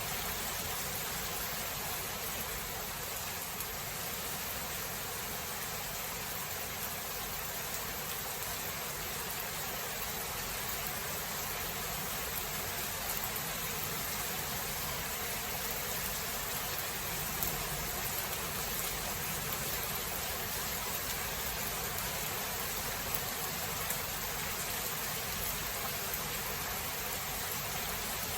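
Steady rain falling as an even hiss, with no thunder.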